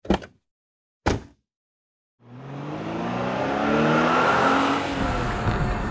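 Sound effect of a car: two short sharp hits about a second apart, then after a pause a car engine revs up, its pitch climbing as it accelerates, over a loud hiss of tyre noise.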